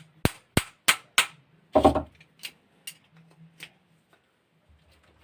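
A run of sharp, evenly spaced taps, about three a second, that stops a little over a second in, followed by one heavier knock and a few scattered light clicks of parts being handled.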